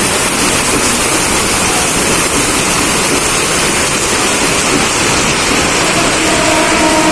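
Mumbai suburban local train running in heavy rain: a loud, steady rush of rain and running-train noise. Near the end a steady humming tone joins in.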